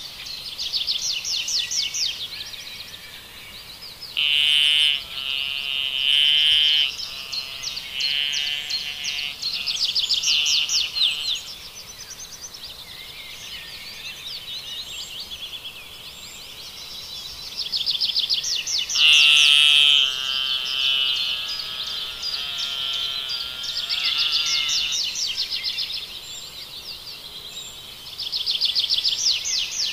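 Songbirds singing: fast trills over and over, with louder, fuller calls about four seconds in and again around nineteen seconds in.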